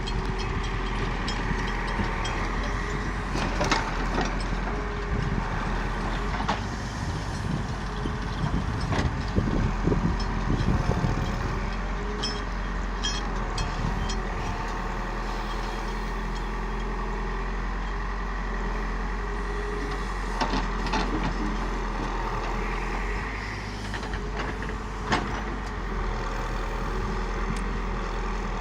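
Heavy diesel vehicle engines running steadily, with occasional sharp knocks and clanks.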